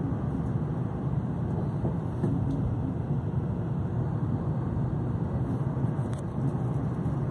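Steady low rumble inside a Shinkansen bullet train carriage, the train's running noise heard through the cabin.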